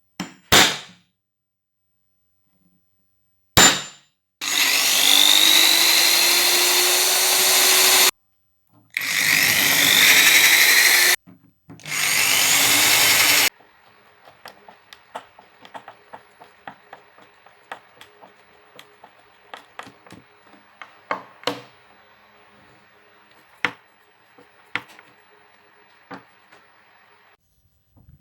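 A power tool running in three loud bursts, each starting with a rising whine that then holds steady, after two sharp knocks. Then follows a quieter stretch of scattered clicks and taps.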